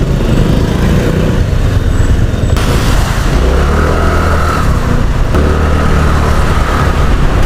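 Motorcycle being ridden through road traffic, its engine running under a steady low rumble of wind on the microphone. The sound turns brighter about two and a half seconds in, and a steady hum joins from around the middle.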